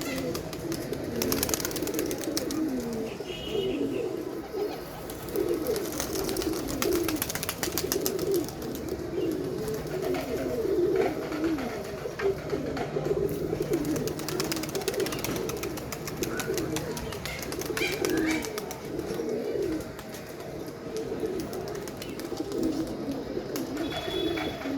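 A group of domestic pigeons cooing, many low coos overlapping without a break, with scattered sharp clicks among them.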